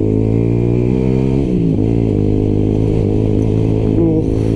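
125 cc single-cylinder motorcycle engine running under way. Its pitch dips briefly about a second and a half in, then settles again.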